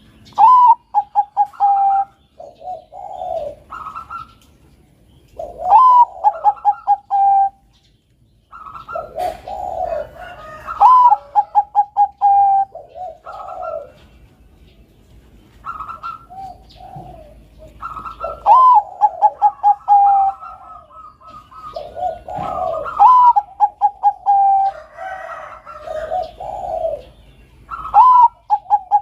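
Bangkok-type zebra doves (perkutut) singing. About every five seconds comes a phrase: a low coo, a rising note, then a quick run of short clipped notes. Some phrases overlap, one bird answering another.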